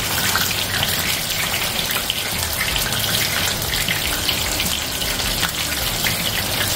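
Batter-coated shrimp deep-frying in hot oil in a skillet: a steady crackling sizzle.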